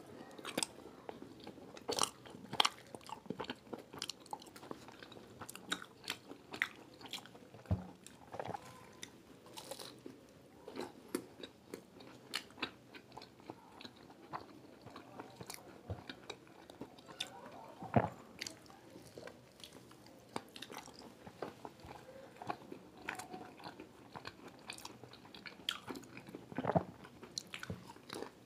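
Two people biting into and chewing fried samosas: irregular crunches of the crisp pastry shell and wet chewing.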